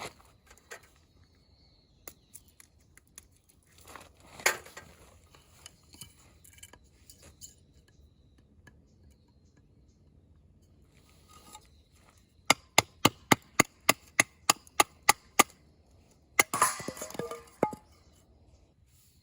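Firewood being chopped: scattered knocks, then a quick run of about a dozen sharp, even strikes, followed near the end by a louder burst of splintering and cracking as the wood splits.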